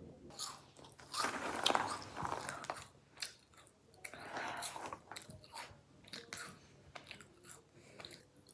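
A person chewing and crunching food close to the microphone, in irregular crunchy bites.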